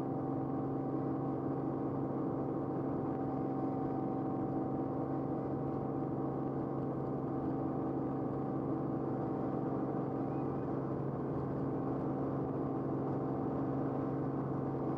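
Steady aircraft engine drone heard from aboard the aircraft, an even hum with several fixed tones that holds unchanged throughout.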